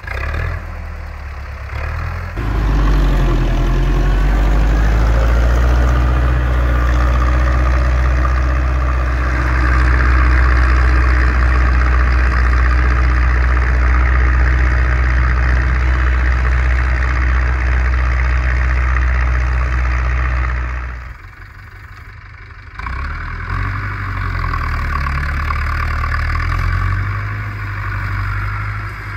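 Zetor 6245 tractor's four-cylinder diesel engine running steadily while pulling a three-furrow reversible plough. It is quieter for the first couple of seconds, then runs loud. About two-thirds of the way through it drops off for a couple of seconds, then comes back lower with its pitch wavering.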